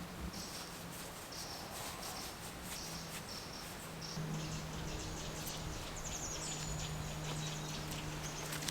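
Woodland ambience: short high bird chirps repeating every second or so, with a quick trill about six seconds in, over a low steady hum that grows stronger about four seconds in, and scattered light clicks and rustles.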